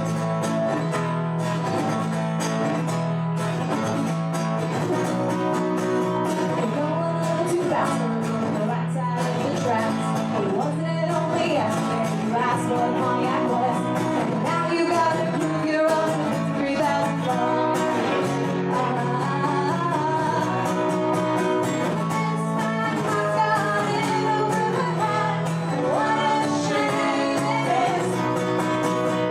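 Live band playing a rock song with guitar and a singing voice.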